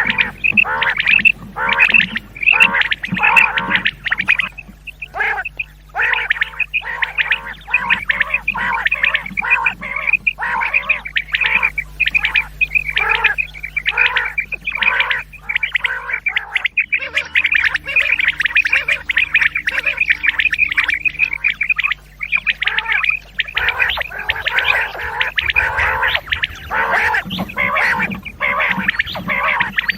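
Common quail calls from a hunting-lure recording, repeated rapidly in dense, overlapping bursts with a brief break about seventeen seconds in.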